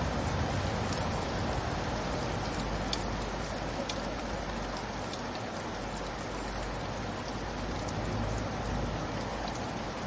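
Steady light rain falling, with scattered sharp drops ticking close by, notably about three and four seconds in.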